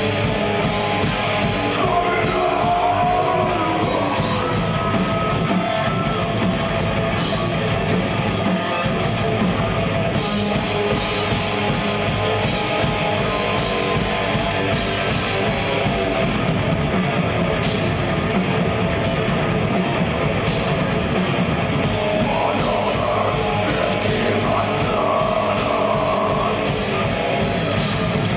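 Live progressive death metal band playing: distorted electric guitars over fast, dense drums, with melodic lead lines a couple of seconds in and again near the end.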